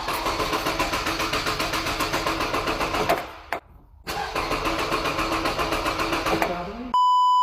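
Car engine cranked on the starter twice, each about three seconds of even rhythmic pulsing, without catching. A short electronic beep near the end.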